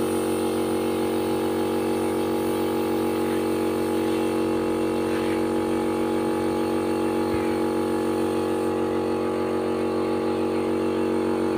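A machine running with a steady, even hum that does not change.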